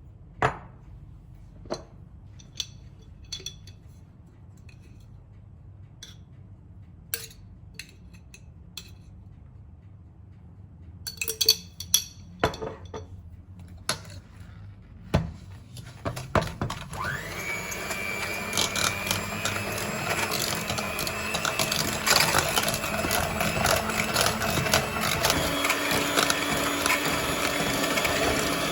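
Scattered clinks and knocks of kitchen utensils, then about halfway through a small electric kitchen appliance motor starts up and runs steadily, louder than the clinks, to the end.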